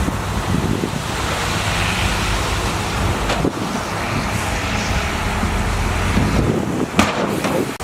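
Bulldozer's diesel engine running steadily under load, with wind noise on the microphone and a sharp knock about seven seconds in.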